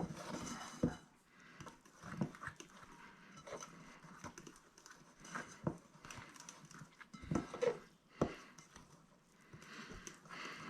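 Spoon stirring and scraping a stiff egg-white and icing-sugar paste in a bowl, with irregular soft knocks against the bowl as the mixture thickens.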